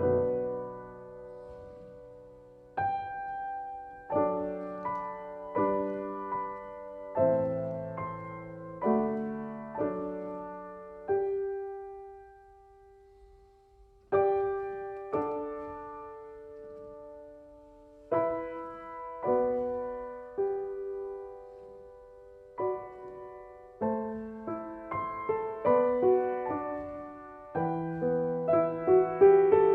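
Slow, gentle solo piano music: notes and chords struck and left to ring out, with a near pause about halfway through before the playing resumes.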